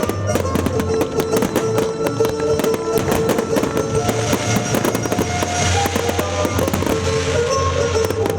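Fireworks going off in quick succession, a dense run of bangs and crackling, over loud accompanying music with sustained notes.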